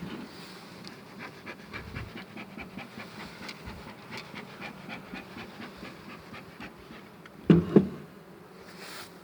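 Honeybee colony buzzing in an open hive, with many small clicks, and two loud thuds close together about seven and a half seconds in.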